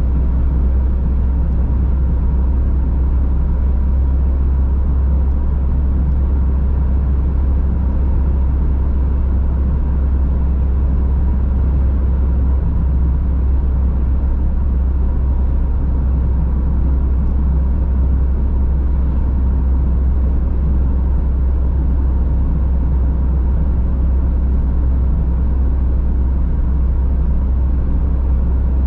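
Car driving at a steady speed: a constant deep rumble of engine and tyres on the road with a hiss of tyre noise above it, unchanging throughout.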